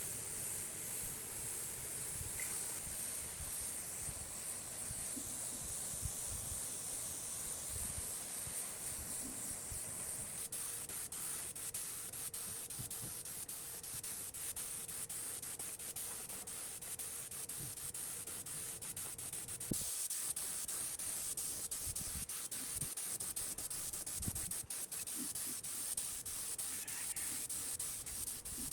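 Steady abrasive rubbing, like sanding or scrubbing a metal part by hand, with a hiss that grows brighter about two-thirds of the way through.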